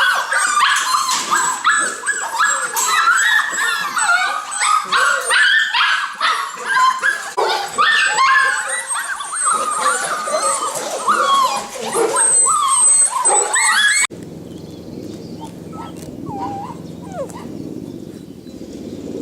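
A litter of puppies yelping and whining together, many high-pitched cries overlapping. About fourteen seconds in, the sound cuts off suddenly to a quieter steady low hum with a couple of faint whines.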